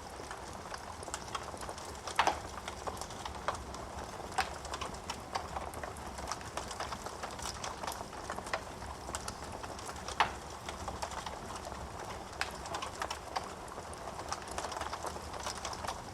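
Wood fire crackling in a fireplace: a steady hiss of burning with irregular sharp pops and snaps, two louder snaps about two seconds in and about ten seconds in.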